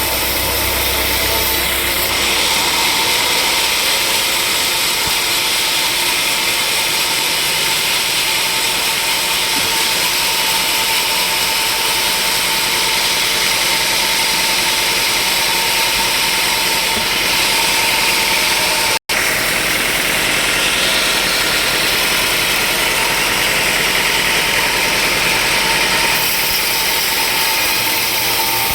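Sawmill machinery running steadily and loudly, a constant mechanical hiss with a steady whine through it. The sound cuts out for an instant about two-thirds of the way through.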